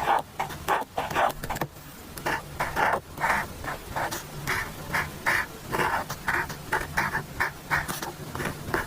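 Pen writing on paper: a run of short scratchy strokes, about two or three a second.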